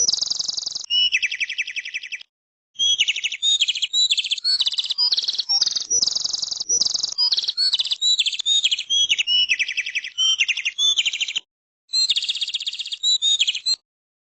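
Birds calling in a rapid series of buzzy, rattling chirps that switch between a higher and a lower pitch, with a few sudden gaps.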